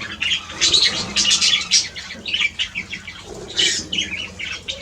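Wild birds chirping in quick, irregular short calls, with wings fluttering.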